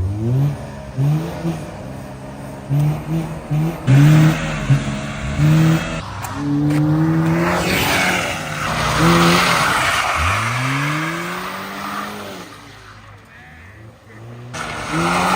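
Car engine revving hard in repeated short bursts, its pitch jumping up and down, with a rushing noise in the middle and one long rise in revs about ten seconds in.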